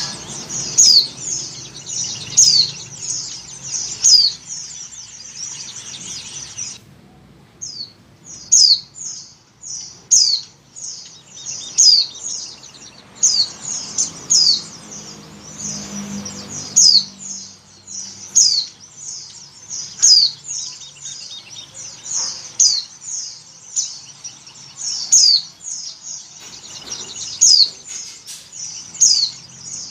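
White-eye (pleci) calls: a steady run of short, high-pitched chirps, each sweeping downward in pitch, coming about twice a second, with a brief gap about seven seconds in. The uploader presents them as a female in breeding condition calling to males.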